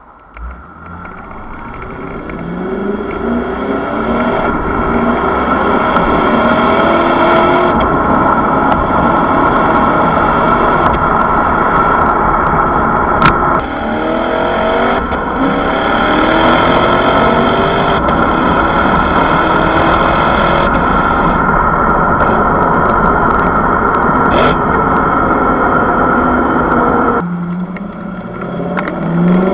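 Lexus GS F's 5.0-litre V8 engine and exhaust accelerating hard through the gears: the pitch climbs repeatedly, with a short drop at upshifts about halfway through and near the end.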